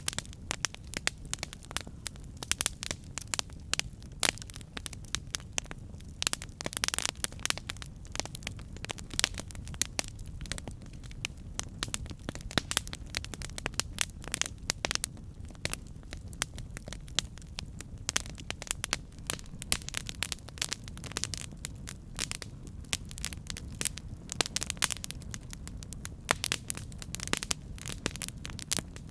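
Campfire burning: wood crackling and popping in dense, irregular snaps over a steady low rumble of the flames.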